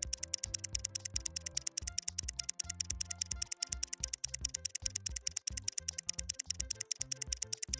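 Rapid, evenly spaced clock-like ticking, several ticks a second, starting abruptly, typical of a quiz countdown timer sound effect, over background music with a bass line.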